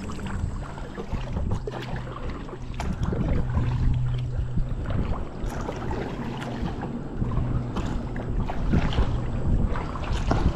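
Kayak moving on a river: water sloshing against the hull and paddle, with wind buffeting the microphone and a few light knocks.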